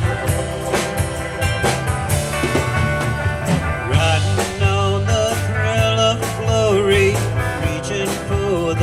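Live rock band playing with a steady drum beat, pulsing bass, guitars and keyboards; a voice starts singing about four seconds in.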